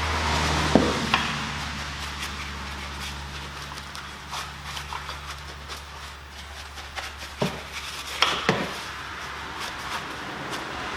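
Stiff bristle brush lightly scrubbing a brake caliper wet with all-purpose cleaner, with scattered scratchy strokes and a few sharp knocks, about a second in and again late, over a steady low hum.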